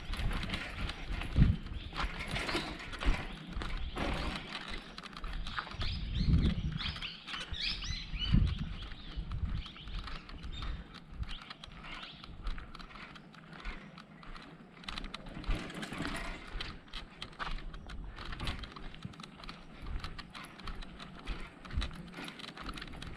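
Bicycle rattling and clicking as it rides over a rough track: a dense, irregular run of small knocks over a low rumble.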